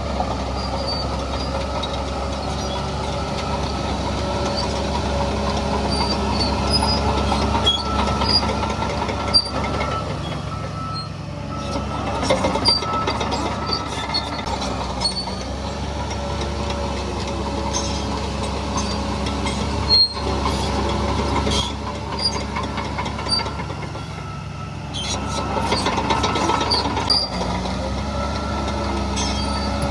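Shantui DH17C3 crawler bulldozer working: its diesel engine runs steadily under load while the tracks give short high squeaks and clanks. The sound dips briefly a little before halfway and again about three quarters of the way through.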